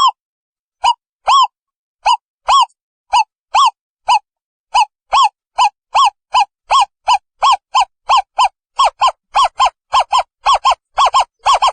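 Owl calling: a series of short, loud hooting notes, each rising then falling in pitch, that speeds up from about two a second to about four a second.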